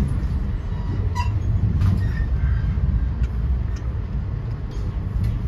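Inside a NJ Transit Comet II/IV passenger coach moving at speed: a steady low rumble of the train running on the rails, with a few sharp clicks and knocks scattered through it.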